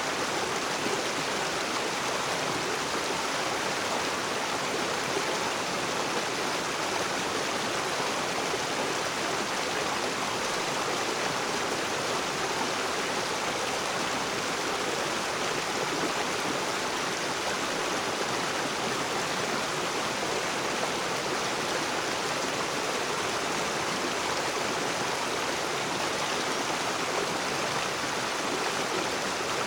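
Rocky river rushing and splashing over stones: a steady, unbroken water noise.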